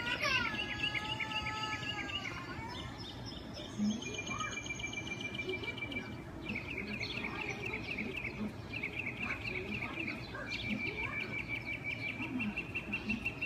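Small birds calling with rapid, repeated high trills over a steady outdoor background noise; a falling call near the start.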